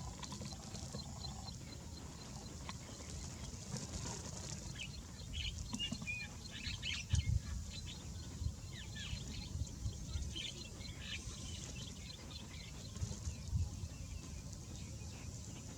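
Birds chirping in short, scattered calls, over a steady low rumble with a few dull low thumps, the loudest about halfway through.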